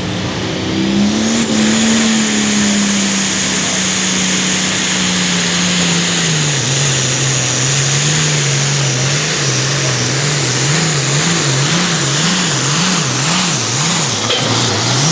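International 1066 pulling tractor's turbocharged six-cylinder diesel at full throttle under the load of a weight-transfer sled. Its note rises about a second in, then sags lower as the sled pulls the engine down, and about ten seconds in it surges up and down about one and a half times a second, with a high turbo whine over the engine note. The tractor is losing its pull and comes up short of a full pull.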